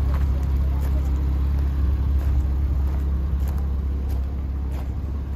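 Porsche Boxster S 3.2-litre flat-six engine idling steadily.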